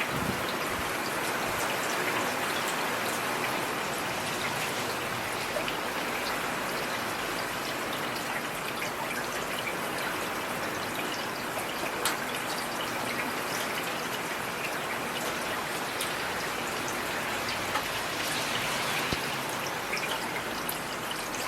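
Heavy rain falling steadily: a continuous even hiss with occasional sharper ticks of single drops.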